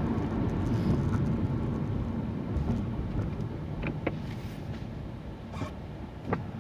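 A car driving, heard from inside the cabin: a steady low rumble of engine and tyres on the road, with a couple of faint clicks about two-thirds of the way in and near the end.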